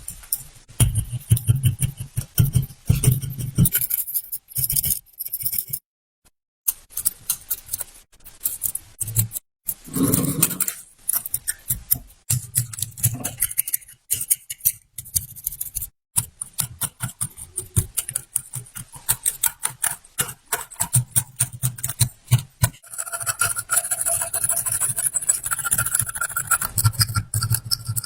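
Metal tool work on rusty pliers: repeated scraping, clicking and knocking of metal on metal, broken by a couple of abrupt silent gaps, with a steady hum joining in near the end.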